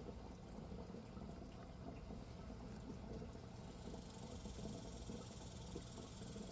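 Water bubbling and trickling steadily in a 55-gallon fish tank, aerated by an air stone fed from an air pump. A higher hiss joins about four seconds in.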